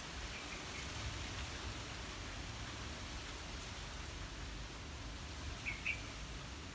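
Breeze through trees: a steady rustling hiss with a low rumble of wind on the microphone. A small bird gives short high chirps, faintly about half a second in and twice more clearly near the end.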